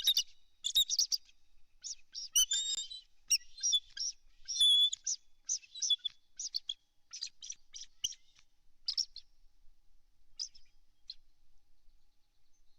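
Bald eagle calling: a series of high, thin chirping notes in quick runs that thin out and stop about ten seconds in.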